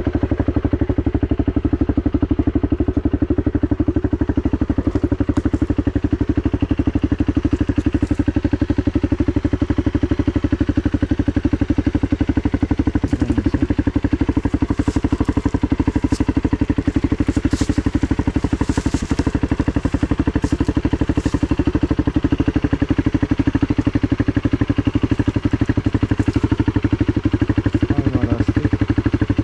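Dirt bike engine idling steadily, a rapid even pulsing.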